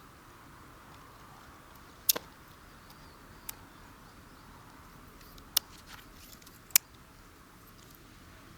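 A few sharp clicks or snaps, the loudest two about two seconds in and near the end, over a steady faint hiss.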